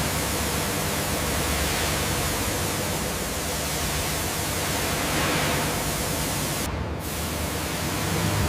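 A steady, loud rushing hiss with no clear pitch, briefly dipping in the highs about seven seconds in.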